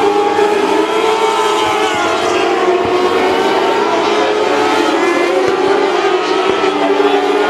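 Several mini sprint race car engines running together, their pitches wavering up and down as the cars lap.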